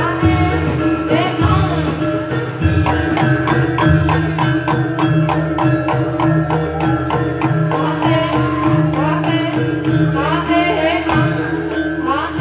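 Live Javanese jaranan/reog ensemble music: hand drums beat a fast, even rhythm under a sustained low drone, with a high melody gliding up and down over it.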